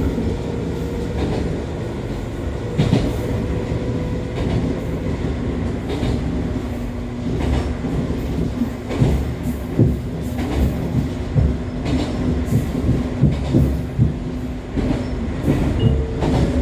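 Interior running sound of an Echizen Railway MC6101-series electric railcar, with a steady whine from its drive. From about seven seconds in, sharp wheel clacks over rail joints come thick and fast.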